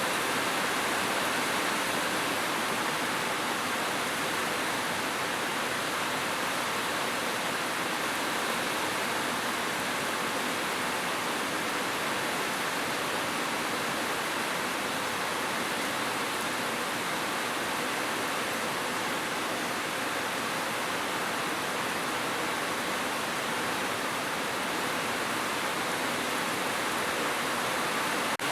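Heavy rain falling on a roof, a steady, even hiss.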